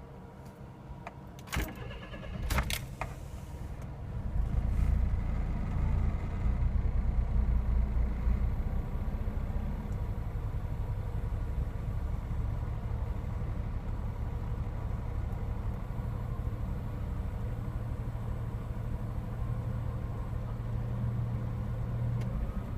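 A couple of sharp clicks, then the Honda Street's small three-cylinder engine starts about four seconds in, runs a little higher for a few seconds and settles to a steady idle. Near the end it cuts out on its own: the stalling fault the owner jokingly calls an engine auto-stop function.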